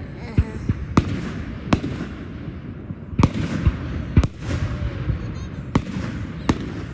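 Fireworks grand finale: a continuous rumble of shells bursting, with about eight sharp bangs standing out at irregular intervals.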